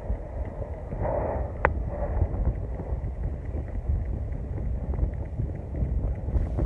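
Strong wind buffeting the microphone, a steady low rumble with one brief sharp click about a second and a half in.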